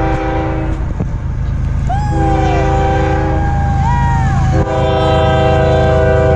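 Diesel locomotive's multi-chime air horn blowing for a road crossing: the end of one blast, a shorter blast about 2 seconds in, then a long blast from near the 5-second mark, over the steady low rumble of the train.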